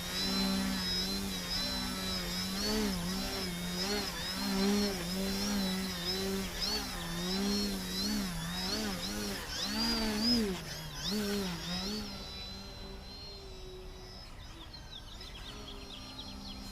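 Brushless electric motor and propeller of a small 3D aerobatic RC plane buzzing as it does torque rolls, its pitch rising and dipping again and again with throttle corrections. About twelve seconds in, it becomes quieter and steadier.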